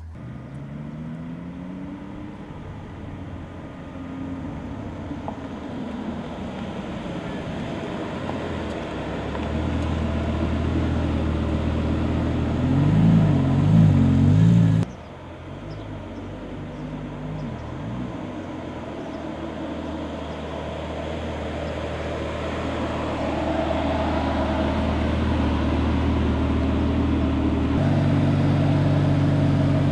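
Lamborghini sports car's engine running as the car is driven at low speed, its pitch rising and falling with the throttle, loudest in a wavering burst of revs just before halfway. The sound drops off suddenly at about the halfway point, then builds again and settles into a steady note near the end.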